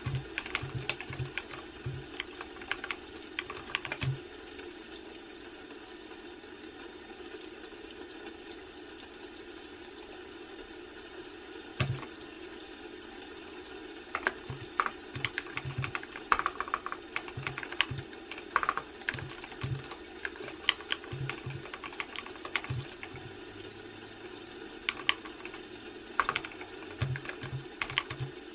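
Typing on a computer keyboard: bursts of quick keystrokes, with a pause of about ten seconds from about four seconds in, broken once by a single louder click near the middle, over a steady low background hum.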